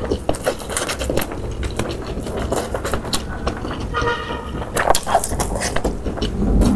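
Close-up eating sounds: many short crunches and clicks of chewing. About four seconds in, a brief horn-like tone sounds once over a low steady rumble.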